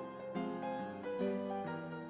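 Background music: a light keyboard tune with a harpsichord-like plucked sound, notes changing about every half second.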